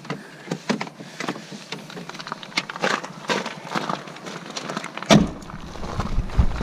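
Footsteps crunching on ice-glazed ground, a step every half second or so, with a heavier thump about five seconds in, after which a low rumble sets in.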